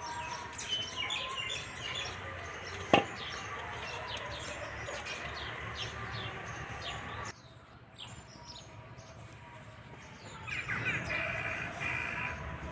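Small birds chirping, many short calls, with one sharp knock about three seconds in. The sound drops quieter a little past halfway, and a run of higher calls comes in near the end.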